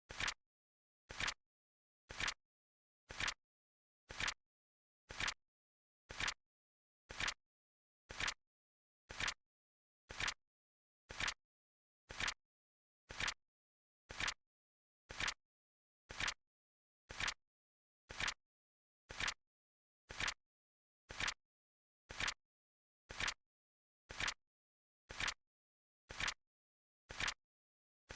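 Countdown timer's clock-tick sound effect: a short, sharp click once a second, evenly paced.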